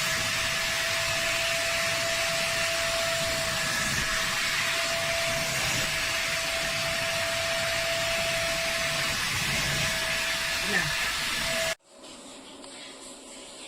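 Vacmaster SCA0801 carpet spot cleaner's suction motor running steadily, a rushing hiss with a steady whine, that cuts off abruptly near the end.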